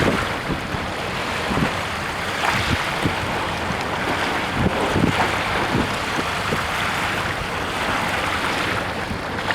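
Water rushing past the hull of a fast-moving sailboat, mixed with wind buffeting the microphone, with a few irregular low thumps.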